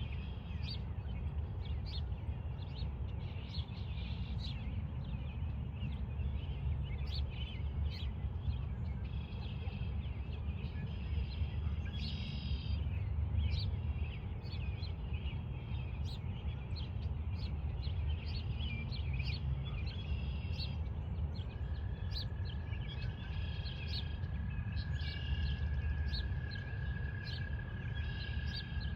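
Pond ambience: many short bird chirps and calls over a steady low rumble. A long, even, high trill starts a little past the middle and runs on.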